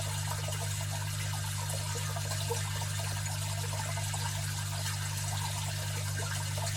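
Aquarium filter running: a steady low motor hum under continuous trickling and splashing of water.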